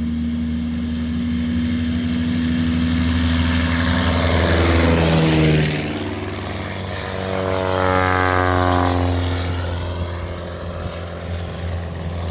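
Two Cub light planes' propeller engines passing low overhead one after the other, each engine note getting louder and then dropping in pitch as it goes by, the first about five seconds in and the second about eight and a half seconds in. A steady low hum runs underneath.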